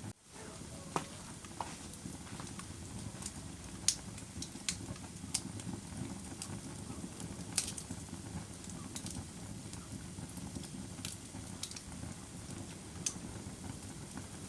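Wood fire burning in a fireplace: a steady low rumble of flames with irregular sharp crackles and pops. A brief drop-out comes right at the start.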